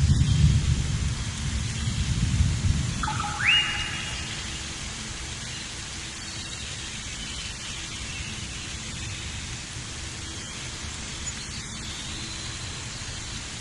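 Thunder rumbling over steady rain, the rumble fading out about four seconds in while the rain hiss carries on. A single short whistle rises sharply and holds briefly, about three seconds in.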